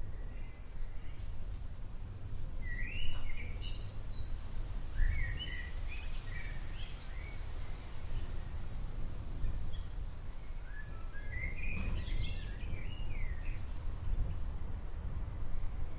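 Small birds chirping in three short flurries over a steady hiss and a low rumble of outdoor ambience.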